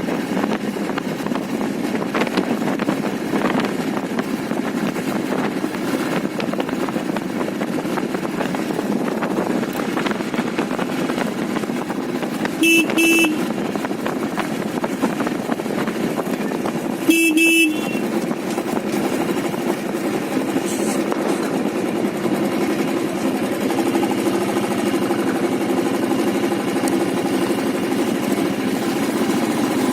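Motorcycle running steadily on the move, with engine and road noise throughout. Two short horn honks about four seconds apart near the middle.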